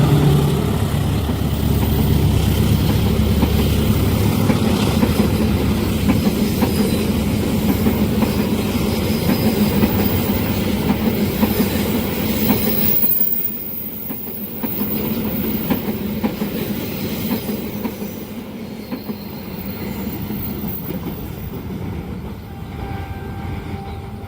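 Train passing close at speed over a level crossing, wheels clattering on the rails; loudest at first, the level drops suddenly about 13 seconds in and the sound fades away toward the end.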